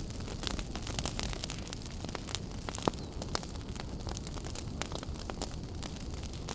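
Wood fire crackling in a fireplace: a steady low rumble of burning with many small, irregular pops, and one louder pop about three seconds in.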